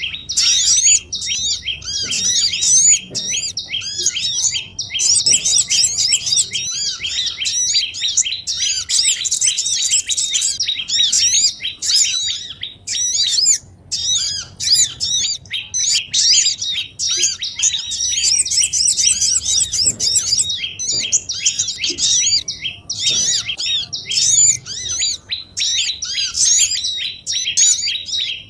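A busy chorus of many small songbirds chirping and twittering at once: quick, high, overlapping calls with hardly a pause, played as a bird-lure recording to draw small birds in.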